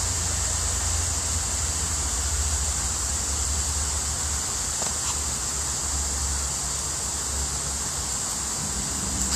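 Steady outdoor background noise: an even, high-pitched hiss over a low rumble, with no distinct events.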